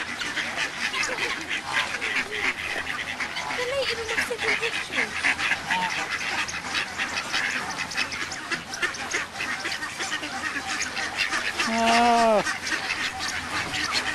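A flock of ducks calling, with many quick overlapping calls throughout and one louder, drawn-out call about twelve seconds in.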